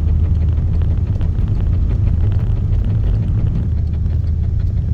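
A vehicle driving on snow chains, heard from inside the cabin: a steady low road rumble with irregular light clonks from a loosely fitted snow chain hitting the fender.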